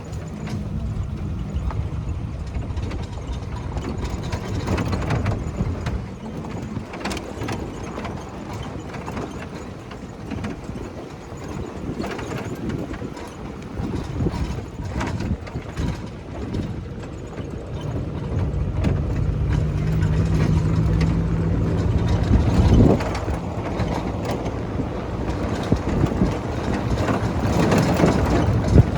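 A motor vehicle's engine running steadily, with frequent knocks and rattles and one sharp knock about three-quarters of the way through.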